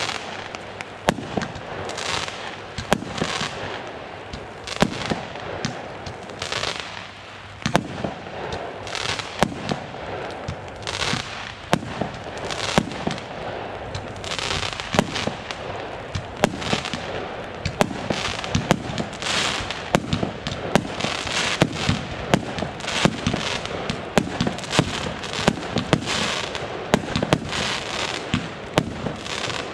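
Consumer fireworks firing: a dense, irregular string of sharp bangs, often several a second, mixed with short bursts of hiss.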